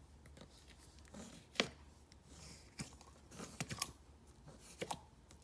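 Hands squishing and stretching a glossy slime with foam chunks in it, making scattered sharp clicks and pops several times through a faint background.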